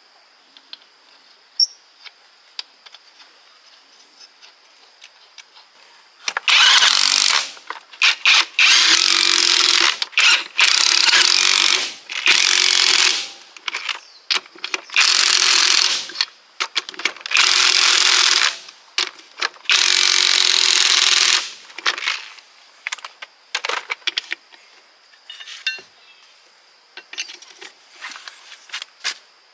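A power tool run in about eight loud bursts of one to two seconds each, with short pauses between, on a truck gearbox during repair. Light clicks and handling sounds come before and after the bursts.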